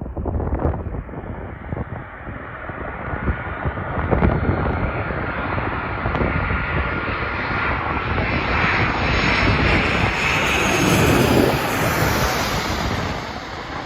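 A Ryanair Boeing 737's twin jet engines grow louder as the airliner comes in to land and passes, with a steady high whine over the rushing noise. The sound peaks near the end, then begins to fade. Wind buffets the microphone.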